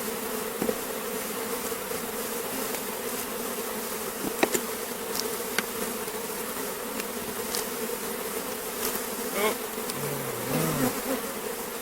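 Honeybees buzzing in a steady hum around an opened hive while frames of bees are being shaken down. A couple of sharp clicks come about four and a half seconds in.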